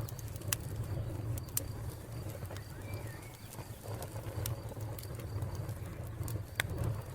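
Wood fire crackling, with scattered sharp pops and snaps over a steady low rumble. A bird calls briefly about three seconds in.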